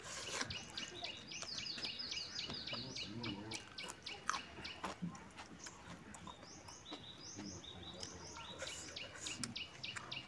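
A songbird sings two long runs of quick, repeated short chirps, about five a second, with a short break around five seconds in. Under it are close-up clicks and chewing from someone eating rice by hand off a wooden plate.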